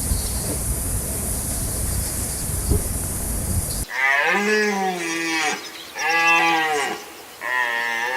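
A steady rushing noise for about four seconds, then an abrupt change to a cow mooing three times, each call about a second long.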